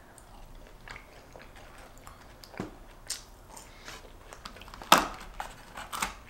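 A person chewing crispy fried food close to the microphone, with a few sharp crunchy crackles, the loudest about five seconds in.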